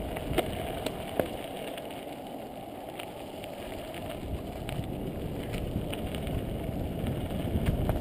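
Mountain bike rolling along dirt singletrack: a rumble of tyres and wind on the microphone, with scattered clicks and rattles from the bike over bumps, slowly getting louder.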